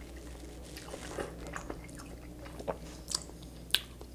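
Close-miked mouth sounds of eating soft, cheesy canned pasta in tomato sauce: wet chewing and lip smacks, with a few short, sharper clicks, the loudest about three and a half seconds in. A low steady hum sits underneath.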